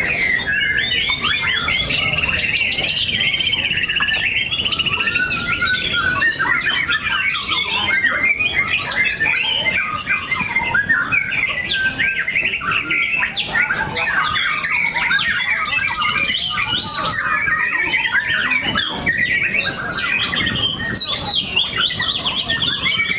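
Several white-rumped shamas (murai batu) singing at once in dense, overlapping runs of quick whistled notes, with a trill held for about three seconds near the start.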